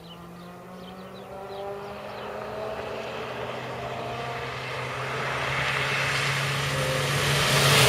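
Historic rally car approaching at speed on a tarmac stage, its engine note growing steadily louder and peaking near the end as it closes in.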